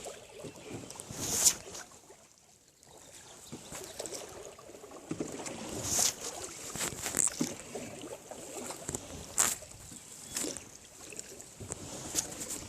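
Water splashing and knocking in short irregular strokes a second or two apart, over a steady outdoor hiss.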